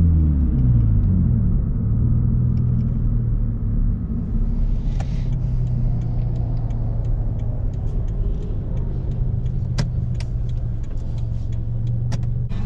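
Scion FR-S's 2.0-litre flat-four running through a muffler-and-resonator-delete exhaust. The engine note drops as the revs fall in the first second, then it runs low and steady. In the second half, a string of sharp pops and crackles comes from the exhaust.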